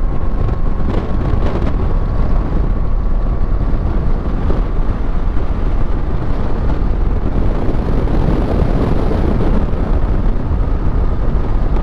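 Motorcycle riding at highway speed: a steady rush of wind on the microphone mixed with engine and road noise, with a faint steady whine throughout.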